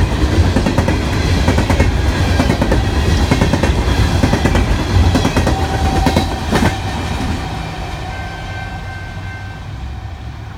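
BNSF coal train's hopper cars rolling past close by: a heavy rumble with rapid clacking of steel wheels on the rails. The last car goes by about six to seven seconds in with a few clanks, and then the sound fades steadily as the train pulls away.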